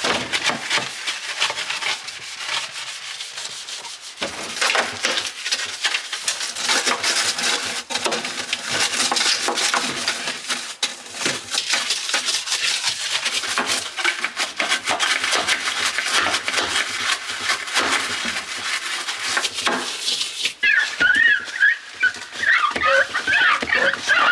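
Scrubbing and rubbing of refrigerator parts during a clean-out, a dense rasping stroke noise. About twenty seconds in it changes to a high, wavering squeaking.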